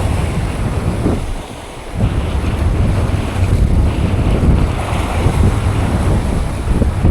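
Wind buffeting the microphone: a loud, steady low rumble that drops off briefly about a second and a half in, then returns.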